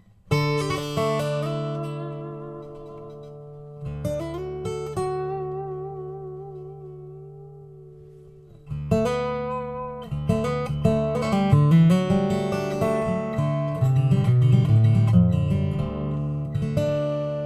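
Acoustic guitar playing a song's intro: a chord struck and left to ring, new chords about four and nine seconds in, then quicker picked notes.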